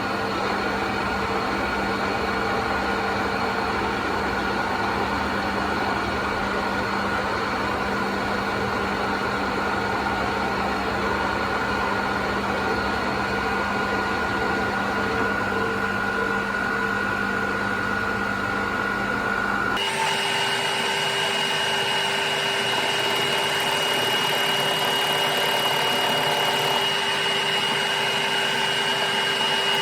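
Metalworking machine tool running steadily, a motor hum with several steady tones. About two-thirds of the way through, it switches suddenly to a different steady whine, a higher tone standing out.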